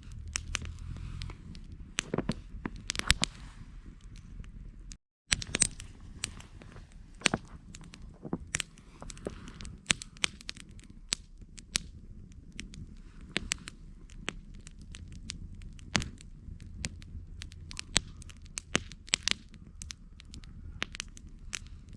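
Campfire crackling, with frequent sharp, irregular pops and snaps over a steady low rumble of the burning fire. The sound drops out completely for a moment about five seconds in.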